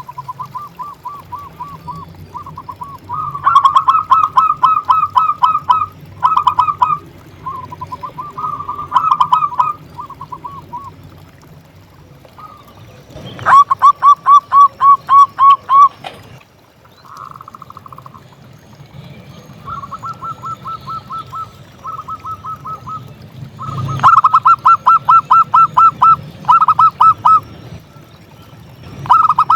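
Zebra doves (perkutut) cooing: repeated bouts of quick, evenly spaced notes, some loud and some fainter.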